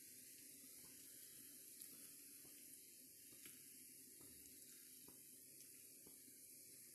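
Faint tap water running into a sink, steady, with a few light clicks.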